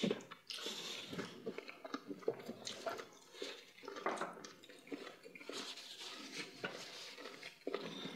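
Mouth sounds of eating fufu and meat in peanut-palmnut soup: wet chewing and lip smacks, a quiet, irregular patter of small clicks, with soft squelches of fingers working the food in the bowls.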